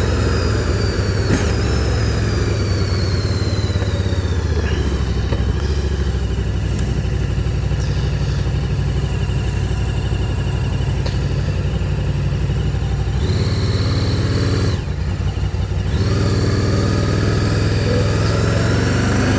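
Can-Am Spyder three-wheeled motorcycle engine running steadily, heard from on the bike, with a brief drop in level about fifteen seconds in.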